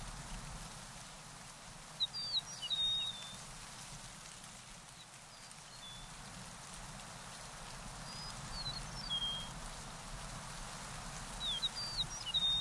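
A songbird singing three short phrases of quick, high chirps and slurred whistles, about two seconds in, around eight and a half seconds in, and again near the end, over a steady background hiss.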